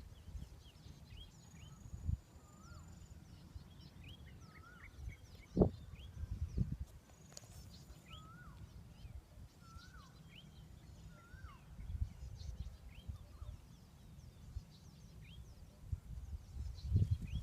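Small birds chirping and whistling in short, curling notes scattered throughout, over a steady low rumble, with a few dull thumps, the loudest about five and a half seconds in.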